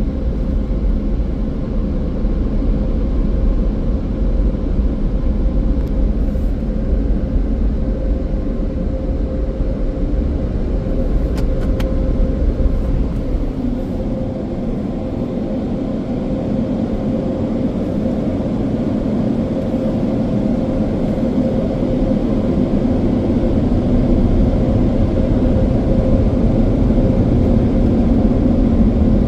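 Touch-free Washworld Razor car wash dryer blowers running, a steady rush of air with a hum, blowing the rinse water off the car. Heard from inside the car, the blowing grows somewhat louder in the second half.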